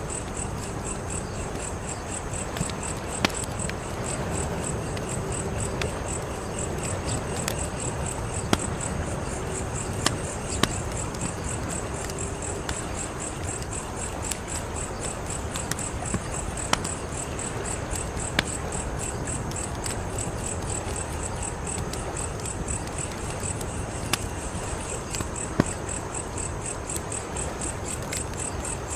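Wood fire crackling and hissing, with about a dozen sharp pops scattered through it. An insect, such as a cricket, chirps in a steady high-pitched rhythm throughout.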